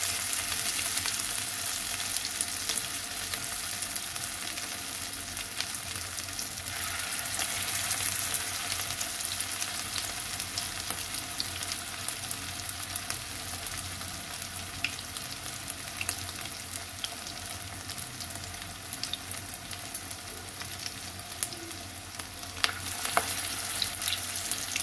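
Potato-and-paneer tikkis shallow-frying in hot oil in a pan: a steady sizzle dotted with small crackles and pops, with a few sharper crackles near the end.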